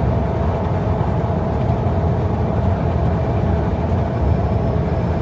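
Steady road and engine noise of a car cruising at highway speed, heard from inside the car.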